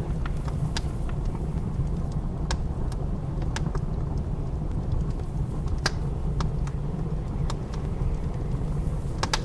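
Wood fire crackling, with sharp, irregular pops, over a steady low rumble of blizzard wind.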